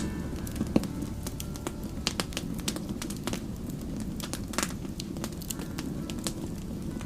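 Wood campfire crackling, with frequent irregular pops and snaps over a steady low rumble of the burning fire.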